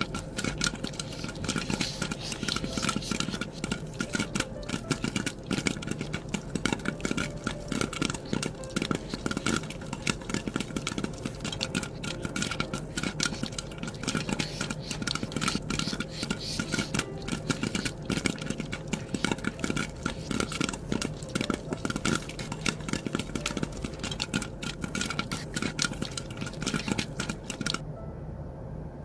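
Continuous rapid, irregular clicking and scraping of small hard objects over a steady low hum; the clicking stops about a second before the end.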